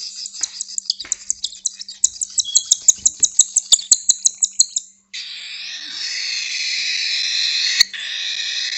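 Baby cockatiels begging for food while being hand-fed: for about five seconds a rapid run of high chirps, about five a second, then a continuous raspy, hissing begging chorus.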